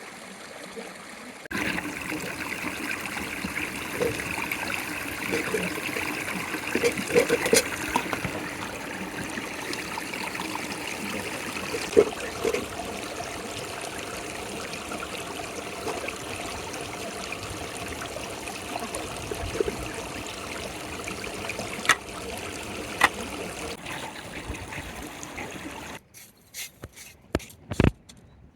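Water running and trickling steadily, with a few sharp clicks over it. Near the end it cuts off abruptly to a much quieter background with scattered clicks.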